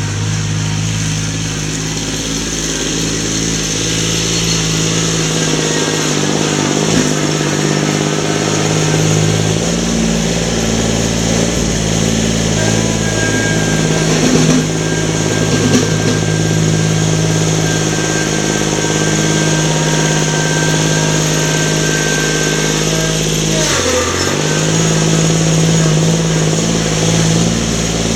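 An engine running steadily at a constant speed. Near the end its note briefly drops and then comes back.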